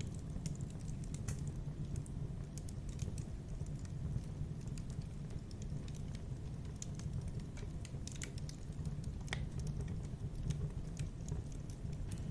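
Wood fire in a fireplace crackling: irregular sharp pops and snaps, several a second, over a steady low rush of burning.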